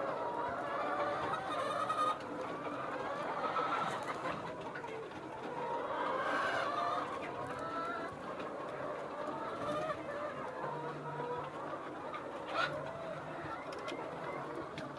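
A flock of Golden Misri chickens clucking and calling, with many short calls overlapping throughout.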